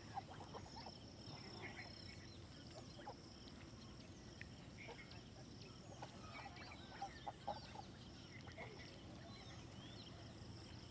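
Faint outdoor ambience: scattered short bird chirps and calls over a steady high insect drone and a low rumble.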